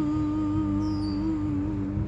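A man's voice holding one long sung note, wavering slightly, from an unaccompanied song.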